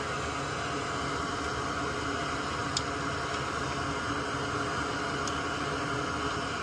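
Steady hiss of moving air at the repair bench, with two faint light clicks about three and five seconds in.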